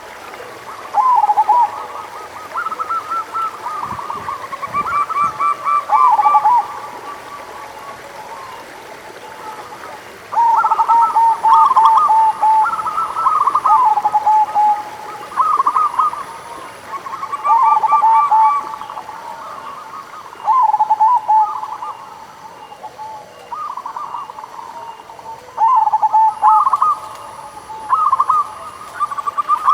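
Zebra doves (perkutut) cooing: phrases of quick stuttering notes running into longer coos, repeated every few seconds, at times overlapping as more than one bird calls.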